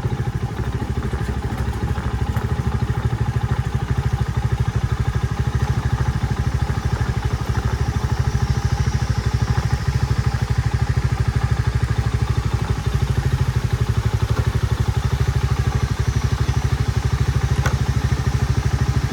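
Motorcycle engine running steadily with an even, low pulsing beat as the bike is ridden along.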